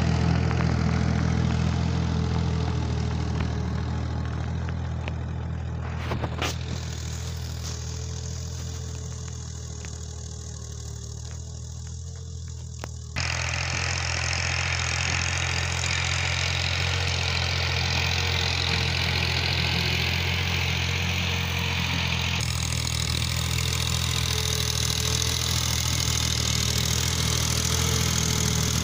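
Tractor engine running steadily at a low, even pitch, with a few sharp clicks about six seconds in. It becomes suddenly louder and brighter about thirteen seconds in.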